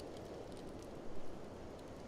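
Steady rushing wind of a blizzard, with a wood fire crackling in scattered small pops; the sound swells briefly a little after a second in.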